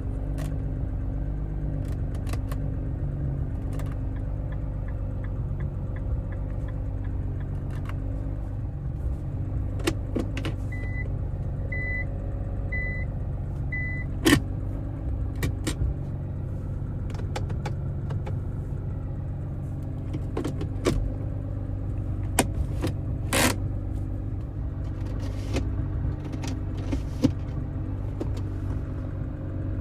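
Nissan R35 GT-R's straight-piped twin-turbo V6 idling steadily, with scattered clicks and knocks. Four short electronic beeps sound about a second apart near the middle.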